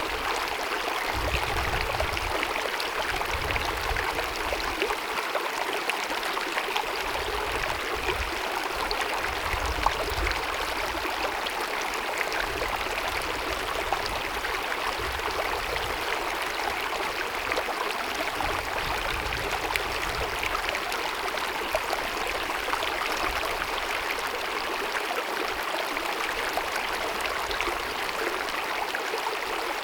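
Small mountain stream babbling and splashing steadily over rocks. A low rumble below it comes and goes throughout.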